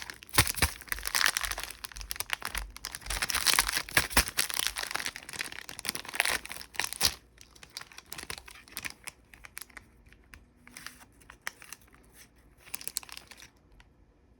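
Plastic candy wrapper crinkling and tearing as it is unwrapped: dense, loud crackling for about the first half, then sparser, quieter crinkles that die away near the end.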